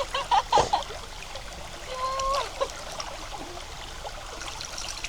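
Water trickling and lapping with light splashing in the river where people are bathing, with brief voice sounds near the start and again about two seconds in.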